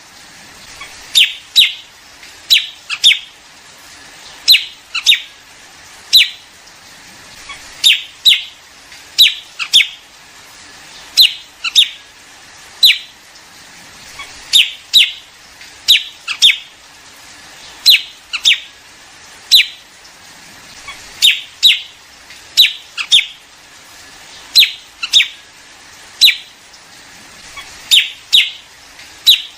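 Liếu điếu bird calls played as a flock-calling lure for trapping: short, sharp notes that drop quickly in pitch, mostly in pairs or threes, repeating about every second and a half.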